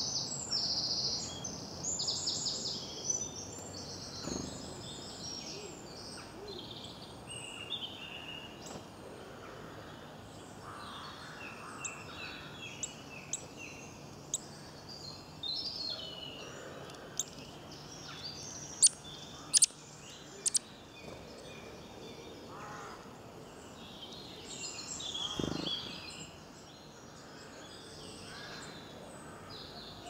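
Woodland birdsong: several small birds singing and chirping in overlapping short phrases over a steady outdoor background, with three sharp clicks a little past the middle.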